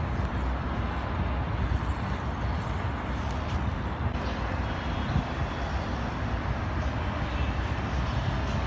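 Steady road noise of a car driving: a low engine and tyre rumble that holds even, with no sudden events.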